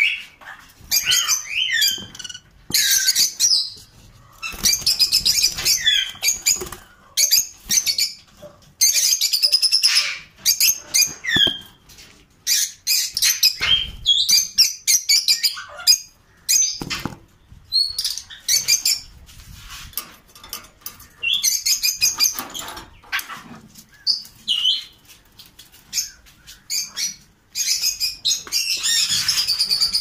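Small caged aviary birds chirping and calling in repeated bursts of high, quick notes, with short flutters of wings among them. The chatter thickens into a dense stretch near the end.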